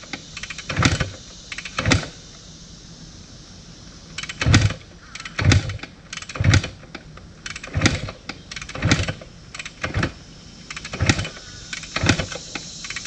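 Kawasaki KS125's two-stroke single-cylinder engine being kicked over again and again without starting: about ten kicks, roughly one a second, with a short pause after the first two. Each kick gives a thump as the engine turns over but does not catch.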